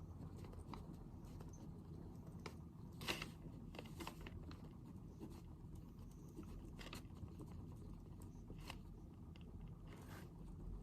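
Faint desk-work sounds of someone studying: scattered light scratches and small taps, the sharpest about three seconds in, over a low steady room hum.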